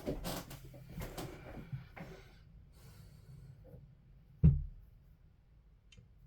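Handling noise from taking apart a small radio transceiver: about two seconds of rustling and scraping, then one sharp knock about four and a half seconds in.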